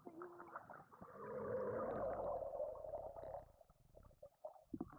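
Muffled gurgling and rushing of water around a submerged microphone, heaviest from about one to three and a half seconds in.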